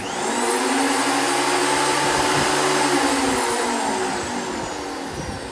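Makita thickness planer switched on with a click, its motor and cutterhead whining up to speed and running steadily. About halfway through, the pitch begins to sink slowly and the sound fades as it winds down.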